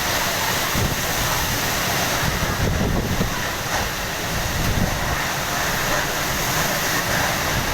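Cyclone Amphan's gale-force wind and heavy rain, a dense, steady rush, with gusts buffeting the microphone in a rumbling low roar.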